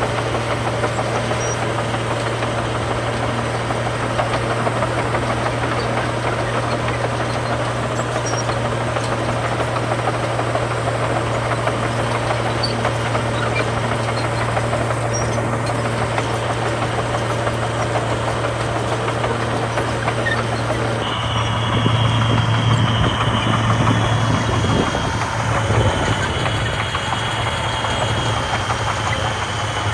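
Heavy diesel engine of earthmoving machinery running steadily with a low hum. About two-thirds of the way in it grows louder as if taking load, and a high steady whine joins it.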